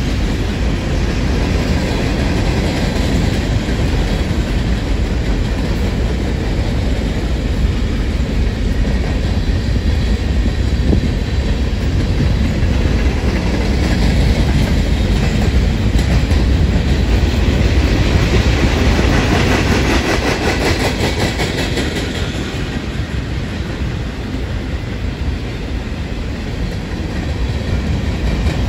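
A long BNSF freight train of mixed cars rolling steadily past: the continuous heavy rumble of its wheels on the rails. The sound brightens somewhat for a few seconds past the middle.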